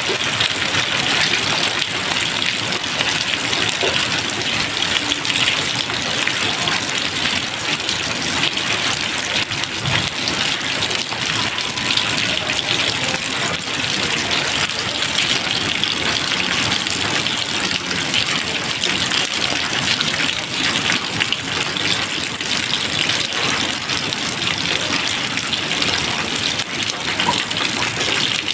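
Steady, dense rain: a continuous hiss of many raindrops, even in loudness, with no thunder.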